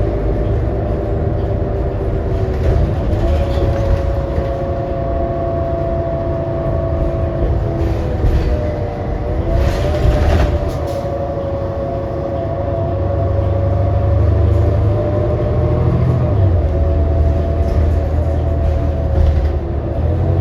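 Inside a 2018 New Flyer XD40 city bus under way: the drivetrain runs with a low rumble and a steady whine whose pitch shifts up and down a few times with speed. A few brief rattles come near the middle. The whine is the odd sound of this coach, which the rider finds messed up.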